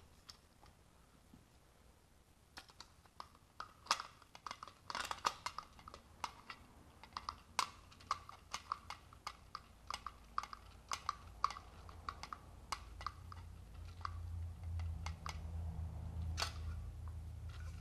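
Irregular small clicks and taps of hard plastic mount parts being handled and fitted together by hand, with a low hum coming in during the second half.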